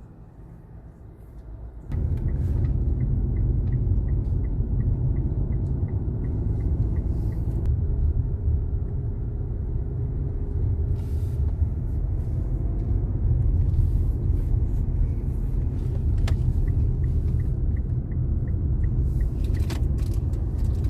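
Road and engine rumble inside a moving car's cabin, jumping suddenly louder about two seconds in and then holding steady. An even ticking, typical of the turn indicator, runs over it for several seconds, twice.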